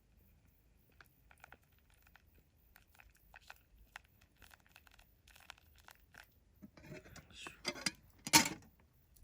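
Crinkling and rustling of something being handled: scattered small crackles that grow denser toward the end, with one loud crunch near the end.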